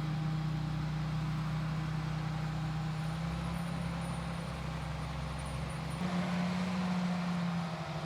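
Tractor engine running steadily under load, heard from inside the cab as a constant droning hum. About six seconds in the hum shifts slightly higher in pitch and the deep rumble beneath it drops away.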